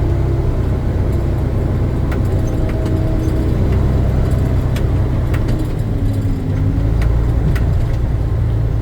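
Dump truck's diesel engine running steadily, heard from inside the cab as a deep, even hum, with a few light clicks and rattles.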